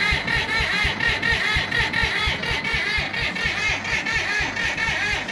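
Old John Deere bulldozer engine running just after being started, with a steady, quick exhaust beat.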